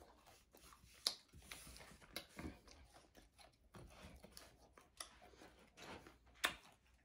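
A person chewing food close to the microphone: soft wet mouth noises with scattered clicks, the two sharpest about a second in and near the end.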